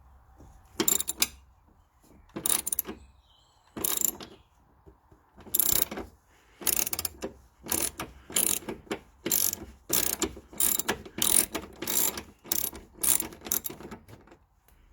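Socket ratchet undoing an 8mm bolt holding the engine-bay fusebox: a run of short ratchet clicking strokes, slow at first and then quicker, about two a second.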